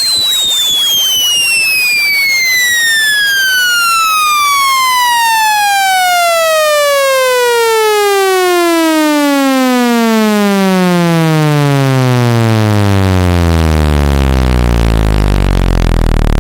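Electronic speaker-cleaning test tone, a buzzy tone full of overtones, sliding steadily down in pitch from a high whistle to a deep bass hum over about fourteen seconds and then holding low. It is played loud through a phone speaker to vibrate water and dust out of the speaker grille.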